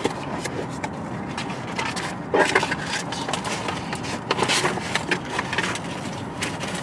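Car air-conditioning blower running steadily, with scattered clicks, scrapes and rubbing as a box and its packaging are handled.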